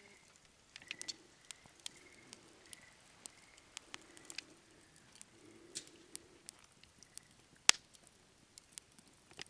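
Wood campfire crackling, with scattered small pops and one sharp loud pop near the end.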